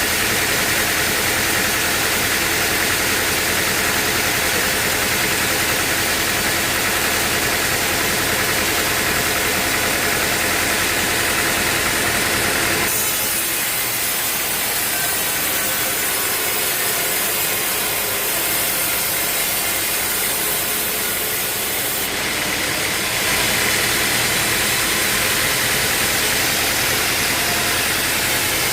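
Sawmill machinery running steadily, with engine noise and sawing through wood. From about 13 to 22 seconds in, the sound changes to less rumble and more hiss, then goes back.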